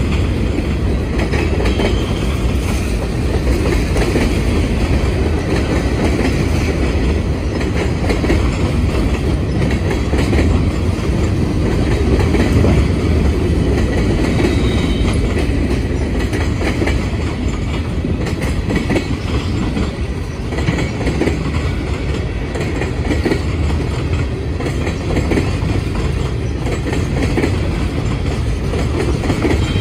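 Freight train of covered hoppers, a tank car and gondolas rolling steadily past close by: a continuous rumble with the clickety-clack of wheels over rail joints and a few brief, faint high wheel squeals.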